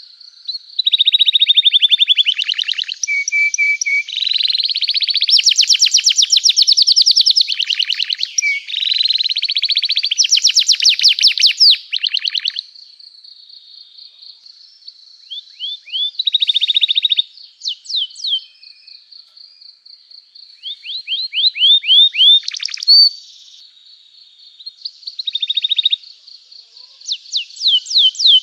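Domestic canary in full song: fast rolling trills and rapid repeated chirps in bursts of one to three seconds, with short pauses between phrases. A thin, steady high note carries on under and between the phrases.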